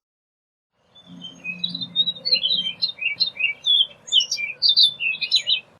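Orchard oriole singing: a rapid, varied jumble of short whistled and slurred notes that starts about a second in and runs on without a break.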